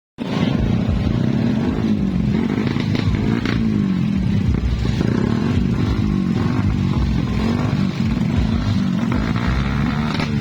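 Suzuki Satria FU motorcycles with brong open exhausts riding in a convoy, engines loud and their pitch rising and falling as they rev. The sound cuts in abruptly just after the start.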